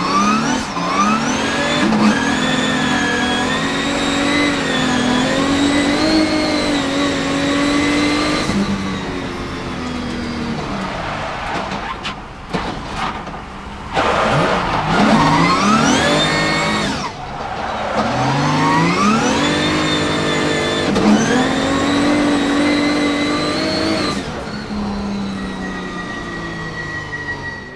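Nissan VR38DETT twin-turbo V6 in a drift car, heard inside the cabin, revving hard with its pitch rising and falling as the throttle is worked. About twelve seconds in it drops away briefly, then climbs again in several steep rising sweeps.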